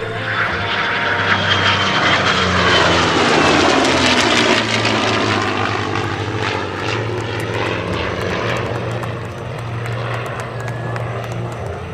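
The Heritage Flight formation, a P-51D Mustang's propeller engine and an F-22 Raptor's jet engines, flying past. It is loudest about four seconds in, and its pitch falls as it goes by.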